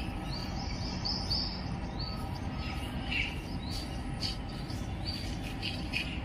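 Small birds chirping in short, repeated calls over a steady low background noise.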